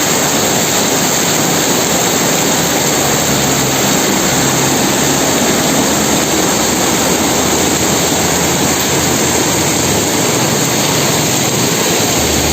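Heavy rain in strong wind: a loud, steady rushing hiss with no separate knocks or bangs.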